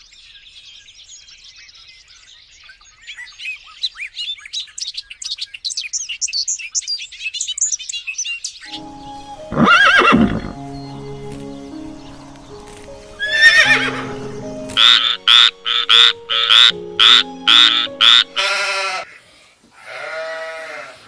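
Farm-animal calls over background music. High bird chirping fills the first half. A loud call comes about ten seconds in, then a quick run of short calls, and wavering calls near the end.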